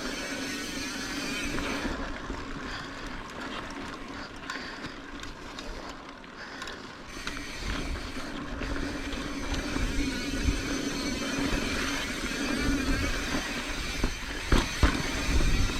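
Mountain bike riding over a dirt singletrack: steady tyre and bike noise with wind buffeting the microphone, and a few sharp knocks about a second before the end.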